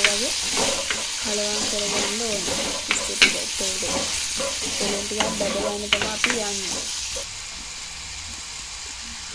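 Prawns frying and sizzling in oil in a clay pot while a wooden spoon stirs them, with a few sharp clicks of the spoon against the pot. The sizzle drops to a quieter level about seven seconds in, once the stirring stops.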